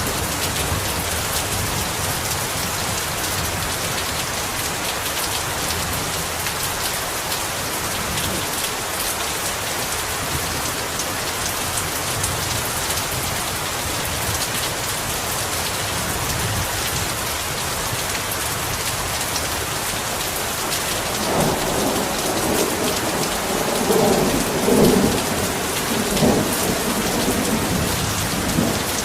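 Heavy rain pouring steadily. In the last several seconds thunder rolls and rumbles, swelling a few times.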